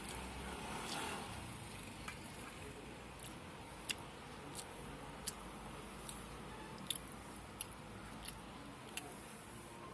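Close-up chewing of food, with a run of short sharp mouth clicks about every three quarters of a second.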